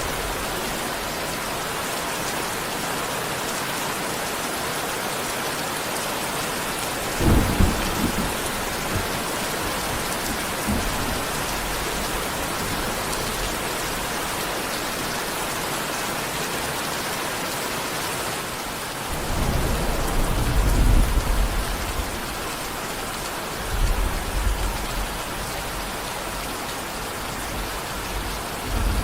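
Steady heavy rain with rolls of thunder: short deep rumbles about seven seconds in and near the end, and a longer, louder roll about two-thirds of the way through.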